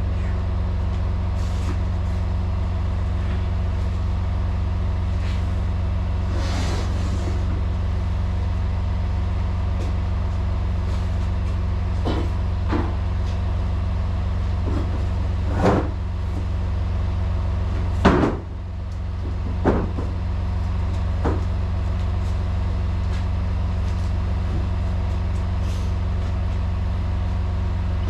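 Semi truck diesel engine idling steadily, with a few sharp knocks and clunks over it. The loudest knock comes about two-thirds of the way through.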